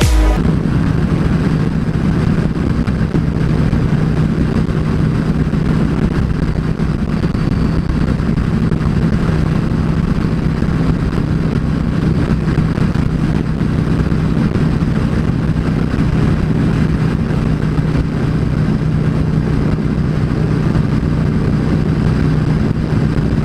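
Yamaha V Star 650's air-cooled V-twin engine running steadily at an even road speed, heard from on the bike, with a rush of wind and road noise over it.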